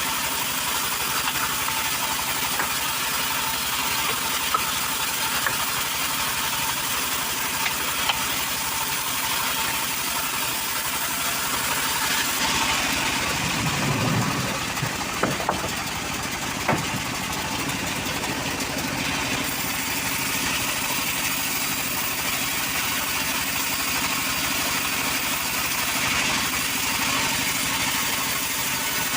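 An engine of a wood-cutting machine running at a steady speed, with a few short knocks over it.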